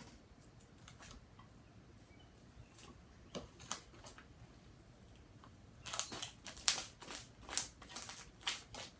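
Slime being squished and poked by hand, making sticky clicks and crackles. They come a few at a time at first, then quicken and grow louder about six seconds in.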